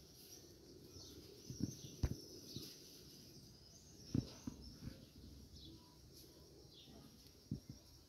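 Small birds chirping, short falling chirps repeated, over faint outdoor background. A few soft knocks cut in about two seconds in, about four seconds in and near the end.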